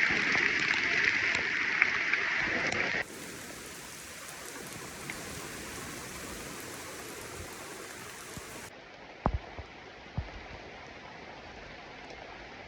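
Rain falling on foliage, with the hiss of a stream or waterfall, loud for the first three seconds and then cutting abruptly to quieter, steadier water noise. A few sharp knocks come near the end.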